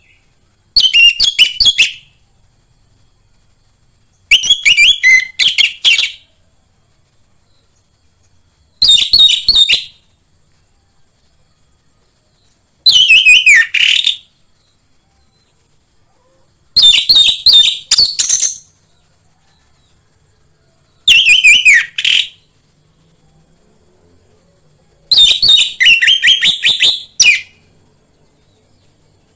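Orange-headed thrush singing in short, rapid warbled phrases of chirps and whistles, seven phrases each a second or two long, spaced about four seconds apart. This is a lure song of the kind played to caged thrushes to set them singing.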